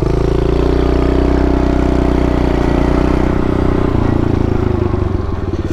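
Pit bike engine revved up and held at a steady higher speed, then easing back toward idle about four seconds in.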